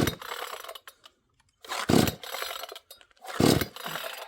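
Dereal 62cc two-stroke chainsaw being pull-started: three pulls on the recoil starter cord, about a second and a half apart, each spinning the engine briefly without it catching. The owner puts the hard starting down to the saw choking and flooding easily from heavy use.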